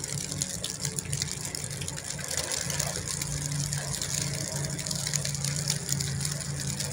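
A motor running steadily with a low hum, under a noisy crackle of many small ticks.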